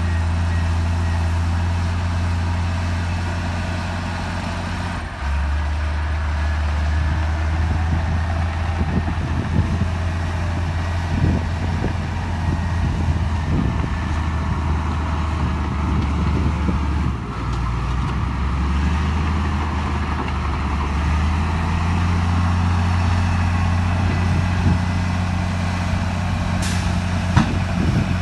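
Heavy diesel engine of earthmoving plant running steadily under load, its note dropping about five seconds in and rising again later, with scattered metallic knocks in the middle stretch and a brief high-pitched sound near the end.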